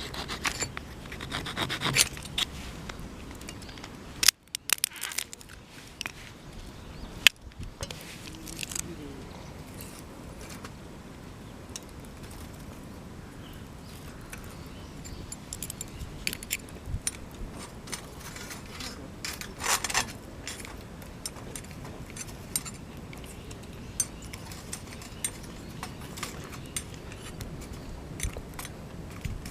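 Scattered small clinks, knocks and scrapes of camp gear being handled, with two sharper knocks about four and seven seconds in and a longer scrape near the end of the second third, over a faint steady background.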